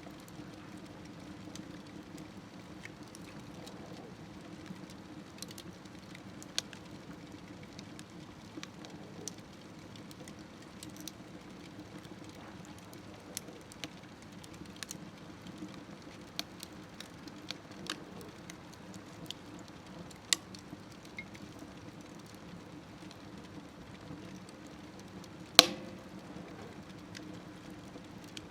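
Wood fire burning in a small smokeless wood stove: scattered crackles and snaps over a low, steady rumble of the flames, with one much louder pop near the end.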